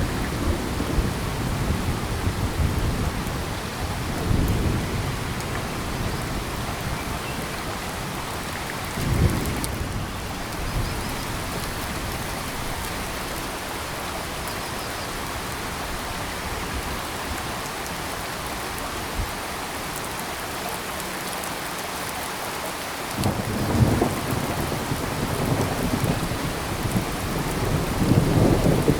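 Steady rain with several low rumbles of thunder swelling and fading, the strongest building near the end.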